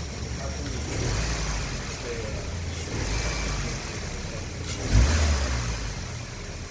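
2013 Subaru Legacy 2.5-litre flat-four engine running on test, revved briefly about every two seconds, the strongest rev near five seconds in.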